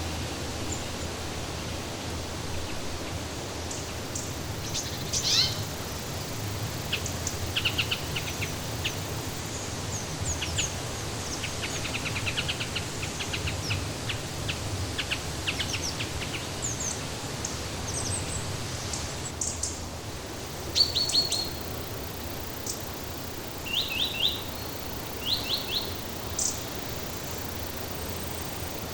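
Small birds chirping and giving quick trills on and off, over a steady, even rushing background noise.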